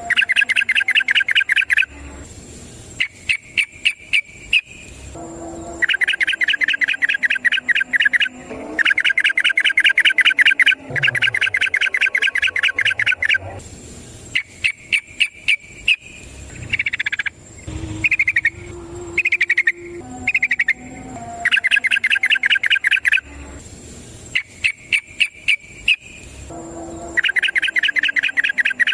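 Yellow-vented bulbul (trucukan) singing its long rapid trill: bursts of quick, evenly spaced notes lasting a couple of seconds each, repeated again and again with short gaps.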